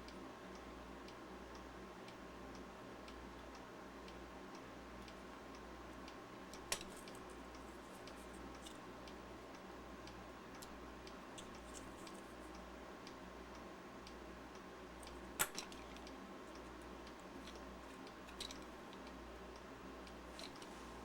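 Quiet bench work on a battery pack: three sharp clicks of small parts being handled, about a third of the way in, midway and later, over a steady low hum with faint soft ticking about once a second.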